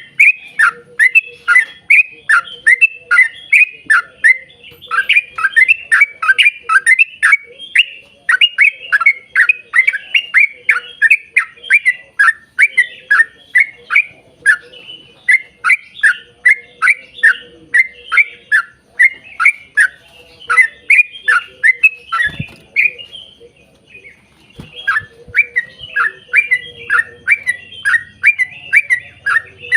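Yellow-vented bulbul (trucukan) singing a long, fast run of clear falling notes, about three or four a second, with a short break about two-thirds of the way through.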